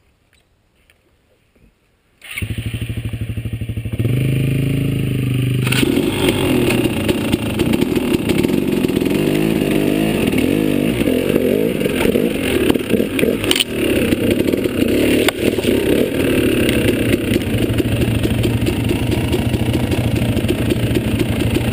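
A dirt bike engine starts abruptly after about two seconds of near quiet, then idles briefly and revs up around four seconds in. It keeps running under load, with an uneven throttle and a few sharp knocks, as the bike rides along a rough trail.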